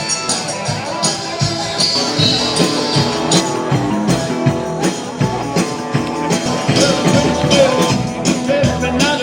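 Live band music, a passage without words, with a steady beat.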